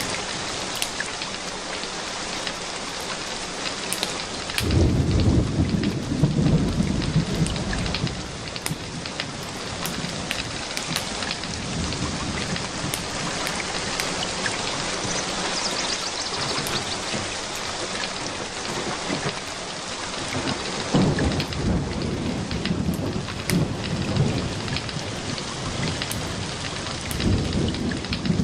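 Steady rain hissing, with thunder rumbling low about five seconds in, again after about twenty seconds and near the end. Scattered sharp crackles sound over the rain.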